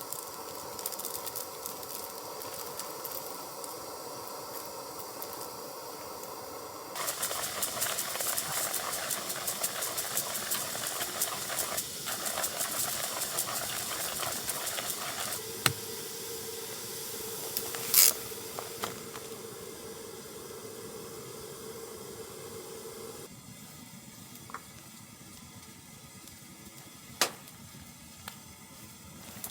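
Steady hissing and crackling from the titanium wood stove and what is heating on it, with a faint steady tone in the middle and three sharp snaps, the loudest about 18 s in.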